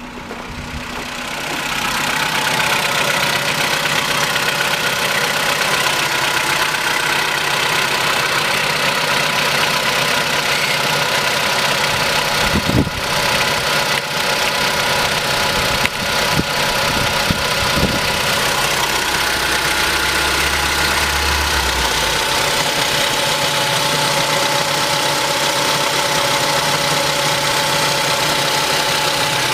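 VW Polo Sedan engine idling cold, just after a start, running steadily. It builds over the first two seconds, then holds level, with a few short sharp clicks near the middle.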